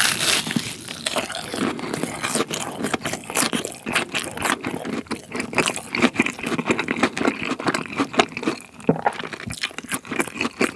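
Close-up crunchy chewing of a deep-fried, breadcrumb-coated cheese pork cutlet. A bite at the start is followed by a dense, continuous crackle of the crisp crust between the teeth.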